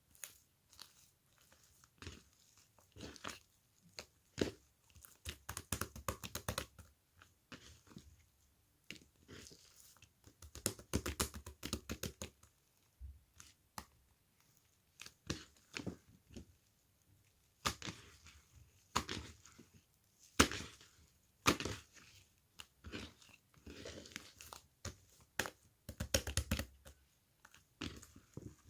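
Irregular close crackling and crunching sounds, some single sharp cracks and some quick clusters, coming and going in uneven bursts with short pauses between.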